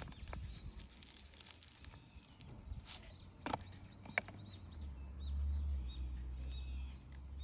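Outdoor rural ambience: small birds chirping over and over in short, high chirps, with a few sharp clicks about three to four seconds in and a low rumble near the end.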